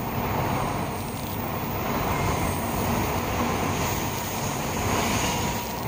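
Tokaido Shinkansen train running past along the station platform: a steady rushing noise from the moving cars.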